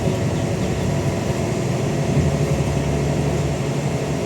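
Scania N94UD OmniDekka double-decker bus's 9-litre diesel engine running steadily under way, with the thrash of an engine the uploader calls tired. A low engine note strengthens a little about halfway through.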